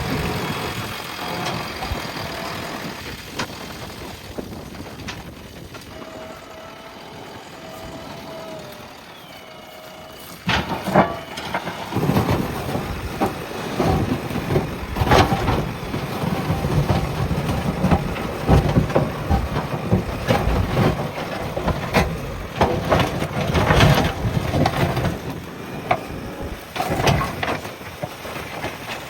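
JCB backhoe loader's diesel engine running under hydraulic work, quieter for the first ten seconds or so, then louder from about ten seconds in, with repeated sharp knocks and cracks over the engine as the bucket works soil and brush.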